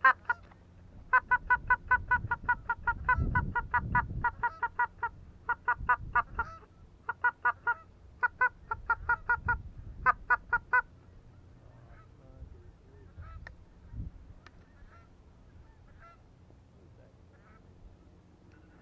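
Goose calling: rapid runs of short, loud honks and clucks in bursts for about ten seconds, then only faint scattered notes. This is the sound of hunters calling a lone goose in to the blind. There is a single thump near the end.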